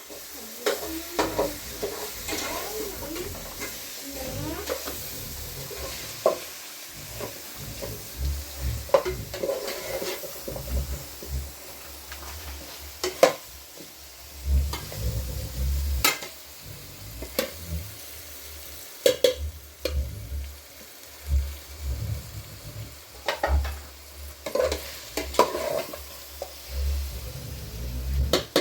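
Cooking in a pan: a utensil stirring and clinking against the pan at an irregular pace, over a sizzling hiss.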